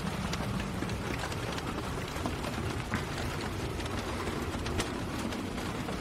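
Steady rain falling, with many small drop clicks scattered throughout over an even low noise.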